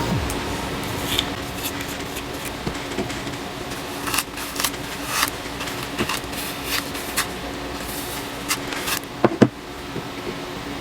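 Hair being handled and braided close to the microphone: scattered rustles and crackling clicks over a steady room hum, with two sharp clicks near the end the loudest.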